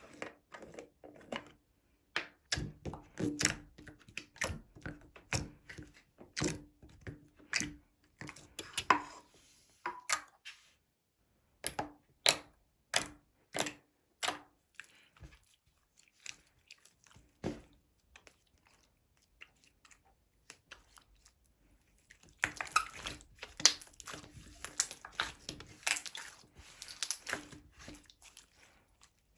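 Slime being squeezed and poked by hand, making a string of sharp clicks and pops, then a dense run of crackling in the last several seconds.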